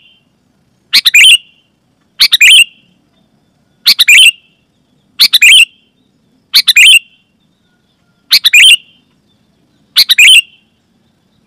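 Sooty-headed bulbul (kutilang) calling: a short, loud phrase of quick bubbly notes, repeated seven times at about one-and-a-half-second intervals with silence in between.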